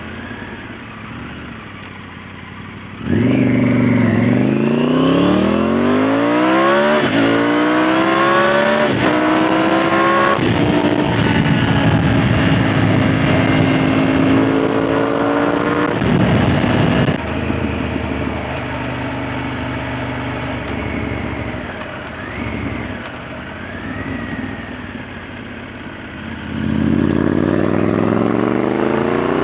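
Triumph Tiger 900 GT's inline three-cylinder engine breathing through an Arrow aftermarket silencer: idling, then pulling away about three seconds in and accelerating up through the gears with two gear changes, running at a steady speed, easing off about seventeen seconds in, and accelerating hard again near the end.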